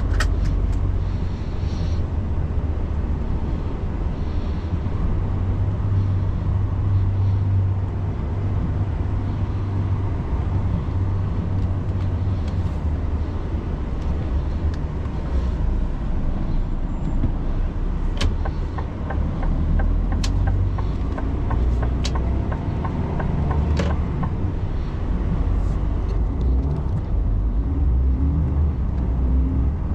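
Truck on the move: a steady low drone of engine and road noise, with a few sharp clicks and knocks in the second half.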